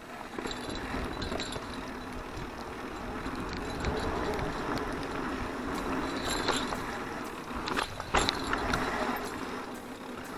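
Mountain bike rolling along a dirt forest trail: tyre noise with the chain and bike rattling over bumps, and a sharper knock about eight seconds in.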